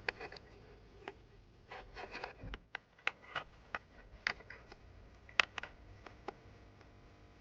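Scattered, irregular light clicks and taps, more than a dozen, the sharpest about five and a half seconds in.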